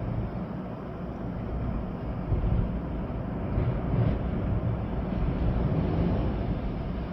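Storm wind gusting with rain falling: a steady, low, rumbling rush that swells a little after about two seconds.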